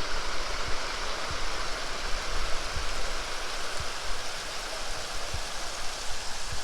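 Steady rushing of creek water, a continuous even hiss, with a few short low bumps scattered through it.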